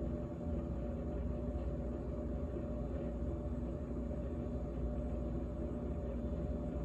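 GE GTH18XCTZRBB refrigerator running, its compressor giving a steady hum made of several fixed tones that does not change.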